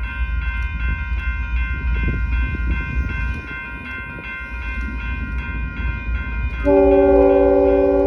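Train rumbling past, with a steady pulsing ringing above it throughout, typical of a grade-crossing bell. Near the end a locomotive horn sounds one loud blast.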